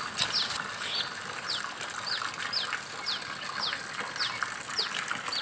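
A bird calling a steady series of short, high, falling notes, about two a second.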